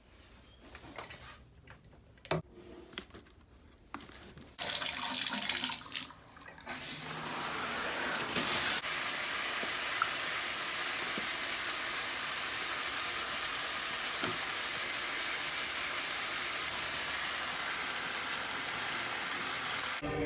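A few light knocks, then water starts running about four seconds in, stops briefly, and comes back on as a steady, even rush of running water.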